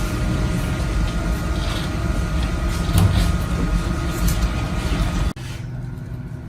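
Steady mechanical running noise with a constant hum, which cuts off suddenly about five seconds in and gives way to a much quieter steady hum.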